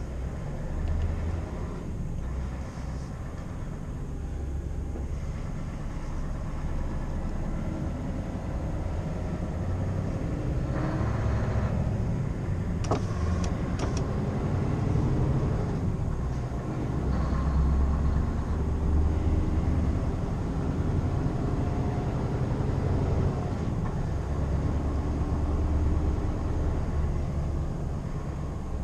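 Scania R520's 16-litre V8 diesel engine running under way, a steady low rumble whose level swells and eases. A few sharp clicks come about thirteen seconds in.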